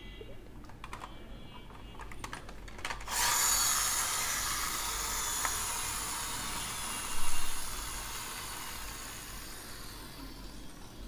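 Faint clicking handling of a toy car, then its little gear motor starts whirring about three seconds in as it runs, fading slowly as it slows down. A bump sounds about seven seconds in.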